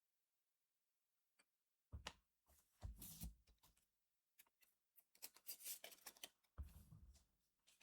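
Cardfight!! Vanguard trading cards and their packaging being handled close up: about two seconds of near silence, then irregular crinkling rustles and sharp card clicks.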